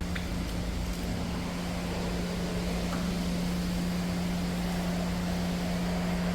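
A steady machine hum: one constant low tone over an even rushing noise.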